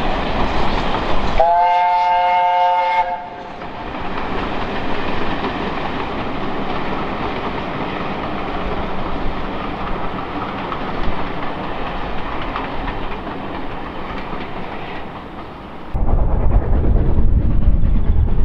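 A steam train running, with a whistle blown once about a second and a half in. The whistle lasts about a second and a half and sounds several notes together. The train's running noise goes on, and near the end it changes abruptly to a deeper, louder rumble.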